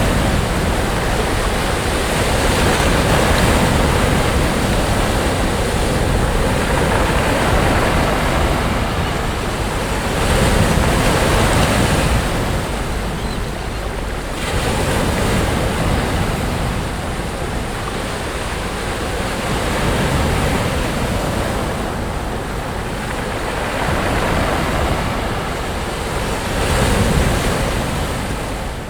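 Sea surf on a beach: waves breaking and washing in as a continuous rush that swells and eases every few seconds.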